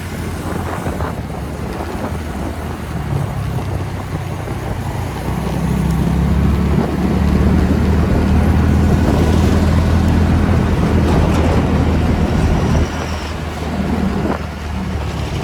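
TVS Ntorq 125 scooter's single-cylinder engine running at road speed with wind rush over the microphone. The low drone grows louder from about five seconds in, holds, then drops off suddenly near the end as the throttle eases.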